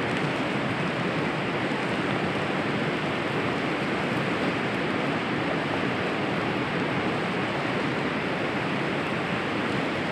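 Steady rushing of water, an even noise with no pauses or single drops standing out.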